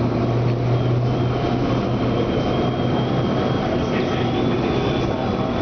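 Electric metro train running, heard from inside the passenger car: a steady rumble of the moving train, with a low hum that fades after about two and a half seconds and a faint high whine.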